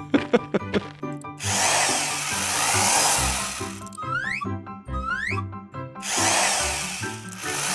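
Cartoon background music with a power-tool-like whirring sound effect that runs twice for about two seconds each, and two quick rising whistle slides between them.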